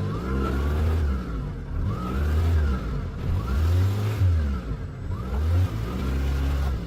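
Car engine being revved again and again, its pitch rising and falling about every second and a half.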